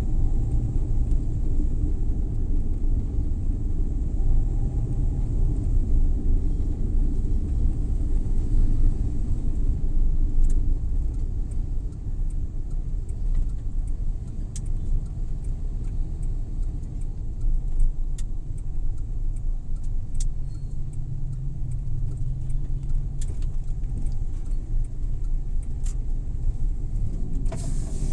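Suzuki Every Wagon (DA64W) kei van driving: a steady low engine and road rumble that eases a little about twelve seconds in, with faint scattered clicks in the second half.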